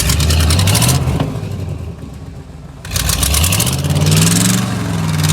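Car engine revved hard in two long bursts, its pitch climbing each time, while the driven wheels spin to free the car from the snow.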